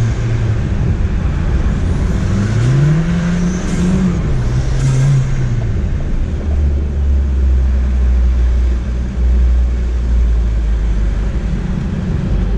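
Ford Fiesta ST's turbocharged engine under hard driving through an autocross course, revving up and easing off a couple of times in the first half, then running at a lower, steady note for the rest.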